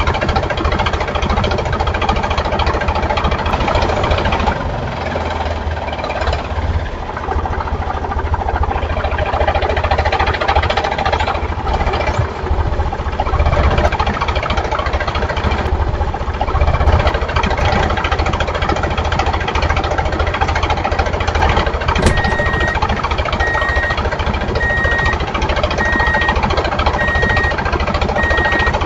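Tractor engine running steadily, mixed with background music. A repeated high beep joins about three-quarters of the way through.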